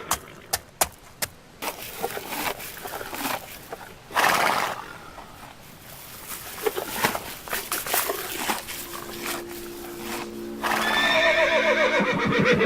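A few sharp clicks and scattered noisy bursts, then a long horse whinny sound effect near the end, falling in pitch. Held low notes sound under the whinny.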